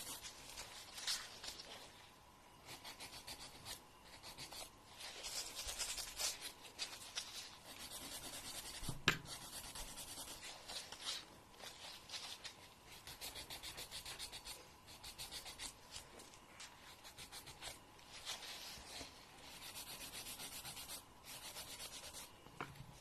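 Fingernail being filed by hand, a nail file rubbing in runs of quick back-and-forth strokes with short pauses between them. A single sharp click comes about nine seconds in.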